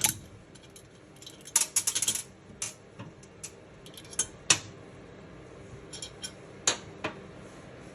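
Small steel valve-train parts and tools clinking and tapping against each other and the cylinder head: valve spring retainer, keepers and shims being handled while setting spring installed height with shims. The clicks come scattered, with a quick run of them about one and a half to two seconds in.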